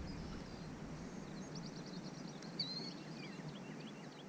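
Songbirds chirping and calling faintly over a soft background hiss: a quick run of high chirps, a short slurred whistle, then scattered single chirps.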